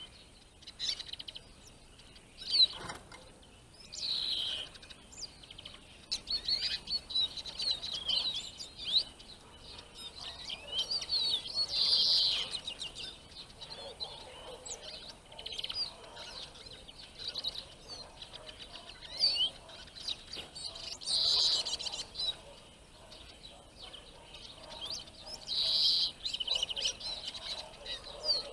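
Small songbirds chirping and twittering in many quick, short notes, with three louder bursts of calls spread through.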